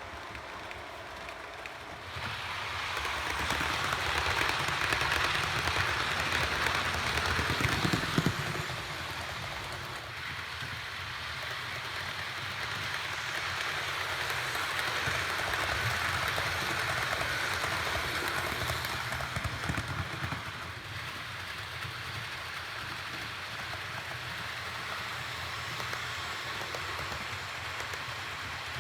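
Model train running on the layout's track: a steady rolling hiss of wheels on rails with a low motor hum. It grows louder about two seconds in, gives a brief clunk about eight seconds in, then runs on a little more quietly.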